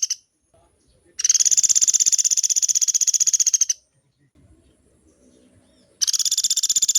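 Pelatuk beras woodpecker giving long, fast rattling trills of rapidly repeated high notes: one run of about two and a half seconds, and a second starting near the end, after the tail of an earlier one at the very start.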